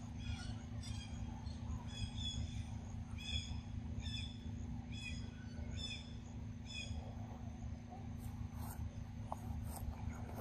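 A bird calling over and over, a short high note repeated about every half second to second, stopping about seven seconds in, over a steady low rumble.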